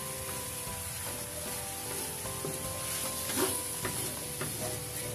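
Beef and onion rings sizzling in a shallow sauce in an aluminium wok while being stirred with a wooden spatula, with a few scraping strokes against the pan in the second half.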